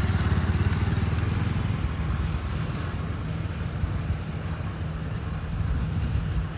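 A single-cylinder 150 cc motorcycle engine runs as the bike pulls away and rides off. The engine note eases gradually as it moves further away.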